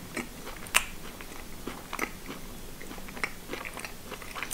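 Close-up chewing of a firm, compact-textured mini kabanos, a thin Polish smoked turkey-and-pork sausage. It comes as irregular small clicks, with a sharper one about a second in and another at the end.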